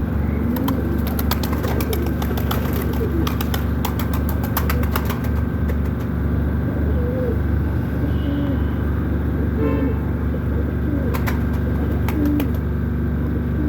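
Pigeons cooing repeatedly in short low calls, over a steady low hum. Runs of sharp clicks come through the first half and again near the end.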